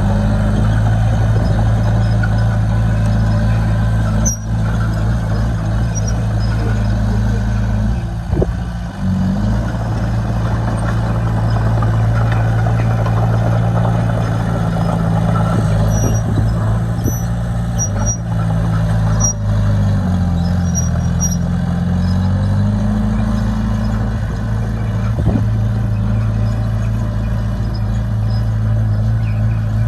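Heavy diesel engine of earthmoving machinery running steadily under load. Its pitch dips and recovers briefly about eight seconds in, and again for a couple of seconds past the twenty-second mark.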